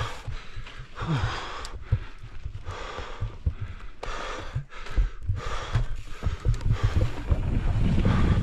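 A mountain biker breathing hard in quick, regular gasps while pedalling up a climbing trail, over a constant low rumble and thumps of the bike on the ground.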